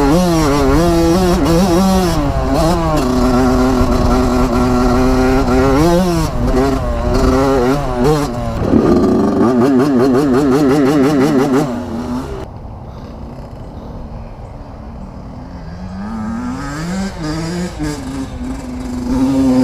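Dirt bike engine under throttle while riding, its pitch rising and falling with revs and gear changes. From about 9 s in the pitch warbles quickly for a few seconds. The sound drops away about 12 s in and climbs again near the end.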